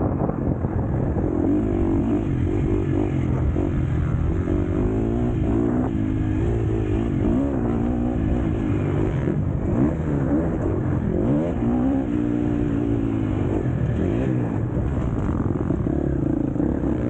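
KTM SX-F motocross bike's single-cylinder four-stroke engine racing, revving up and falling back again and again as the rider works the throttle and gears.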